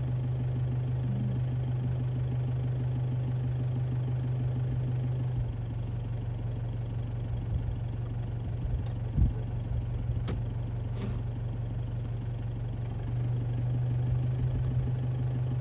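Vehicle engine idling with a steady low hum, easing slightly for a while in the middle, with a few faint clicks about nine to eleven seconds in.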